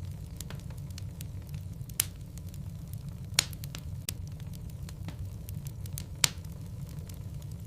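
Logs burning in a fireplace: a steady low rumble of the fire with sharp crackles and pops, three louder snaps standing out among smaller ones.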